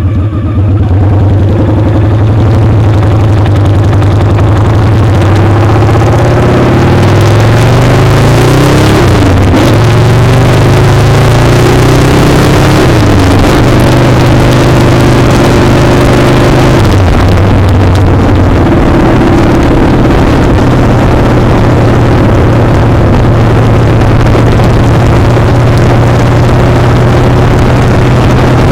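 Motorcycle engine running under way, heard from close to the foot peg, with heavy wind and road rush. The engine note rises and falls several times in the middle stretch, then holds steady.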